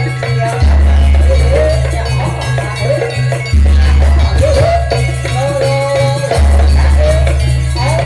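Loud live jaranan music from a Javanese gamelan-style ensemble: clanking metal percussion and drums over a deep booming low tone, with a wavering melody line weaving above.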